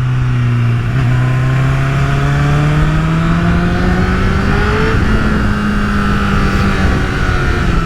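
Honda CBR1000RR Fireblade's 998 cc inline-four running under way through a LeoVince exhaust. The revs climb gradually for about four seconds, then settle and hold steady, with wind noise over the microphone.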